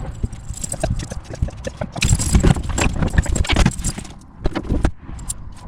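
Irregular metallic jingling and clattering over a low rumble.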